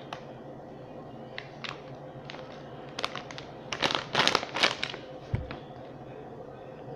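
A crinkly potato chip bag rustling and crackling as it is handled, in short spells that are thickest in the middle, with one soft low thump about five seconds in.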